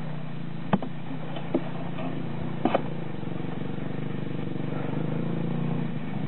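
Enduro motorcycle engine running steadily, with a few sharp knocks in the first three seconds. The engine grows slightly louder in the second half.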